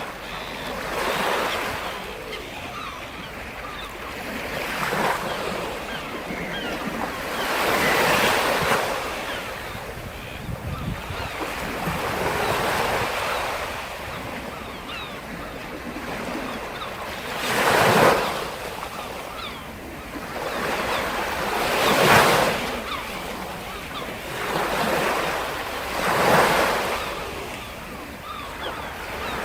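Sea surf: waves breaking and washing on the shore, swelling and fading again every few seconds, with the loudest breakers about two-thirds of the way through.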